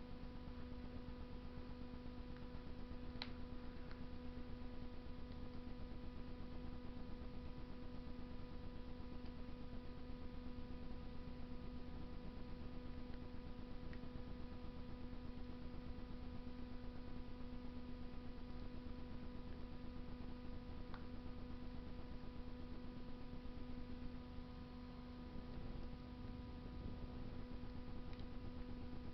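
Wood fire burning in a Russian masonry stove: a low steady rush with a few faint sharp crackles, clearest about three seconds in and again around twenty-one seconds, over a constant steady hum.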